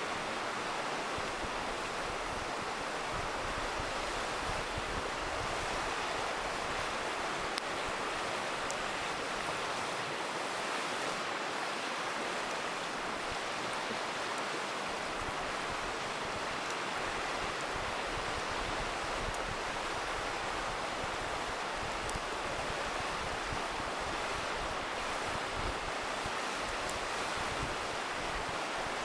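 Steady rushing of a river, with a few faint pops from a crackling campfire scattered through it.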